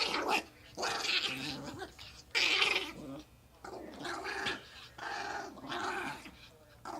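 Chihuahua, riled up, making a run of growling, yowling noises, about one call a second, each rising and falling in pitch.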